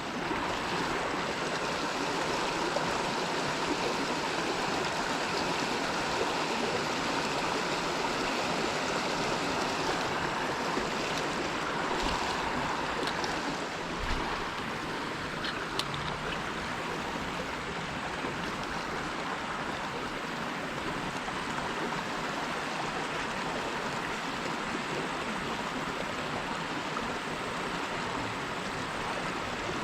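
Creek water running over rocks: a steady rushing and burbling with no break. A few faint clicks sound about halfway through.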